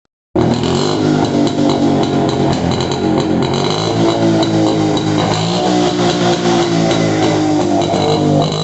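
1976 Yezdi 250 B-type's two-stroke single-cylinder engine running steadily at idle, a continuous exhaust drone with slight wavers in pitch, after a long time unused.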